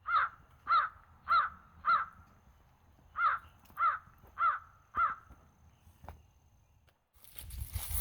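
A crow cawing in two runs of four caws, a little under two caws a second, with a short pause between the runs.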